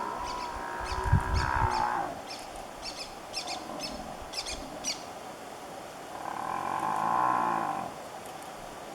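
Buffalo calf bawling in distress under a lion attack: a drawn-out call that breaks off about two seconds in, then another call about six seconds in, lasting nearly two seconds.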